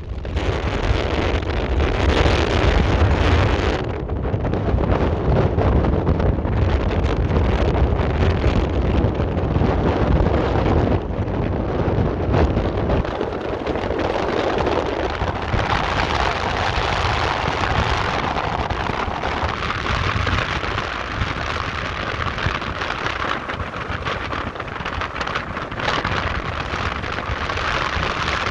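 Erupting volcano heard from close by: a steady, rushing rumble with many small crackles, mixed with wind buffeting the microphone. The deepest part of the rumble eases about halfway through.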